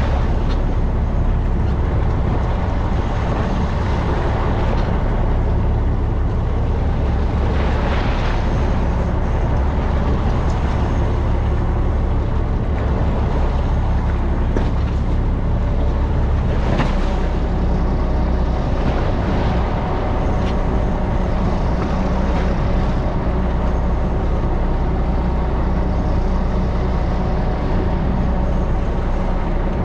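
A fishing boat's engine running steadily with a low drone, under a rush of water and wind, with a few brief louder splashes.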